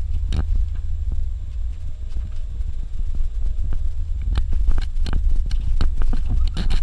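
Suzuki Jimny driving on a dirt road: a steady low rumble with scattered knocks and rattles from the rough surface, growing more frequent in the second half.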